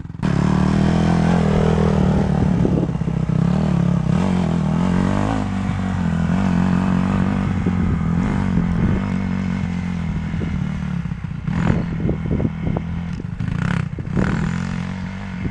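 Dirt bike engine running at fairly steady, low revs as it is ridden, with a few sharp clattering knocks near the end.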